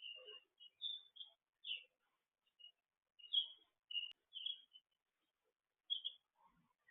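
Songbirds chirping: short, high chirps at irregular intervals, with brief pauses between them.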